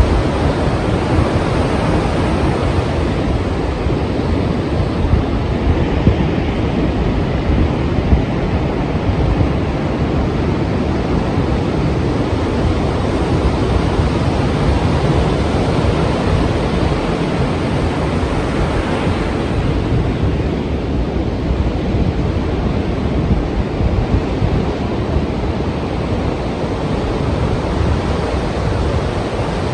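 Strong ocean surf: a dense, steady wash of breaking waves, with wind, swelling slightly about two-thirds of the way through.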